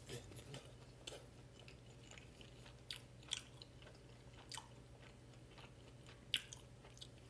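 A person chewing a mouthful of rice wrapped with roasted seaweed (gim): faint, irregular soft crunches and mouth clicks, the loudest about three and a half and six and a half seconds in, over a low steady hum.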